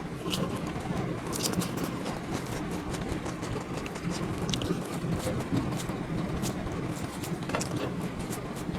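Steady background rumble and hubbub with scattered short, sharp clicks and clinks, like plates and utensils at a meal.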